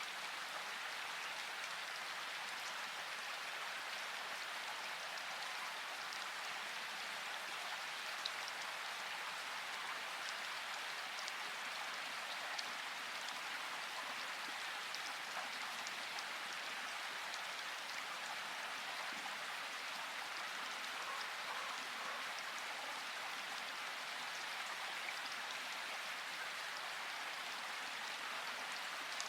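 Steady rain falling, with a few separate drops ticking now and then. No thunder rumble is heard.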